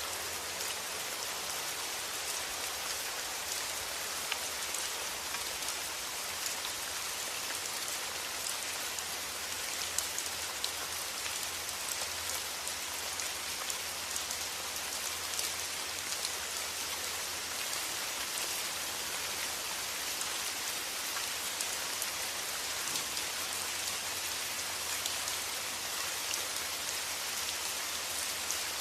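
Steady rain, with individual drops heard as small ticks over an even hiss.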